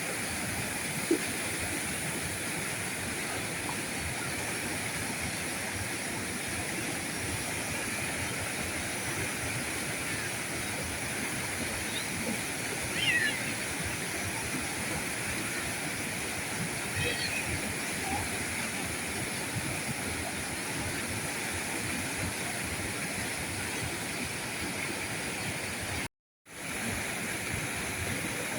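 River current rushing steadily over the streambed. A couple of short chirps sound over it about halfway through, and the sound drops out for a fraction of a second near the end.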